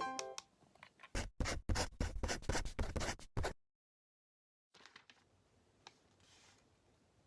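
A quick run of scratching strokes on paper lasting about two seconds, then an abrupt cut to dead silence. After that there is faint room sound with a single small click.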